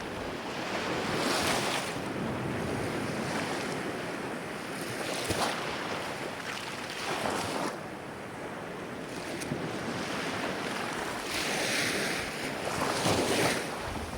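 Ocean waves breaking and washing in: a steady hiss of surf that swells several times, with the longest surge near the end.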